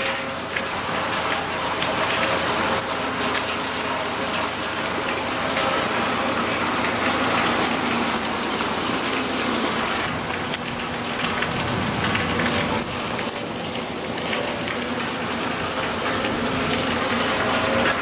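Heavy hurricane rain pouring down steadily, a dense even hiss of rain on surfaces.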